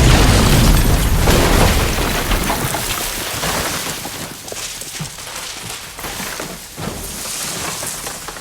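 A loud explosion right at the start, followed by a long rumbling tail of debris raining down and crackling, fading away over several seconds.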